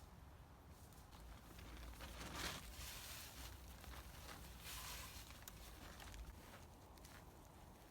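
Very quiet, with a few soft rustling handling sounds over low background hiss; the loudest comes about two and a half seconds in and another just before five seconds.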